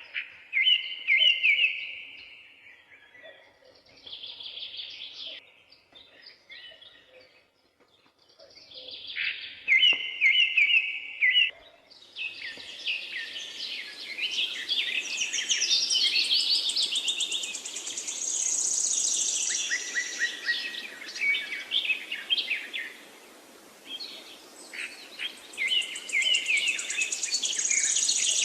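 Several forest songbirds singing, with short phrases repeated every few seconds. About twelve seconds in, a steady background hiss comes in along with a denser chorus, including high trills.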